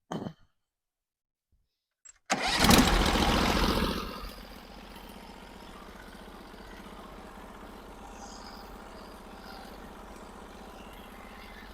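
Sawmill's gasoline engine starting about two seconds in, running loud for a second or two, then settling to a steady idle.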